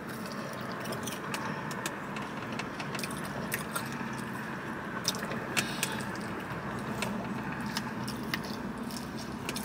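Chewing and scattered small clicks from handling a fried chicken wing, over a steady hum inside a car.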